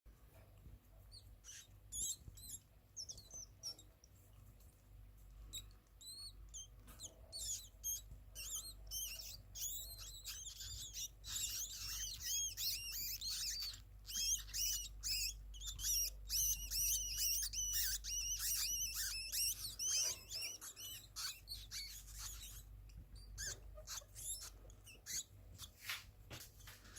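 Small pet rodents squeaking: rapid, high-pitched chirping squeaks, scattered at first, then coming thick and fast for several seconds before thinning out again.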